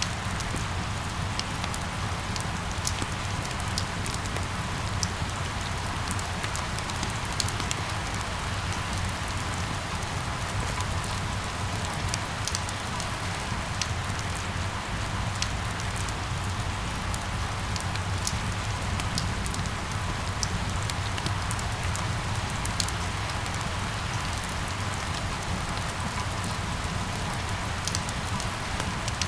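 Steady rain falling on hard surfaces, an even hiss with many distinct drops pattering, over a constant low rumble.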